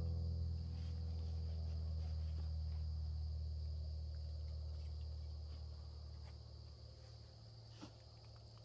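Crickets chirring steadily under a loud low hum that slowly fades away over several seconds. A few faint clicks come near the end.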